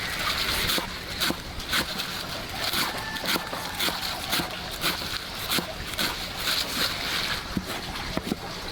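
Water splashing and sloshing in short repeated strokes, about one or two a second and unevenly spaced, as if something is being washed by hand.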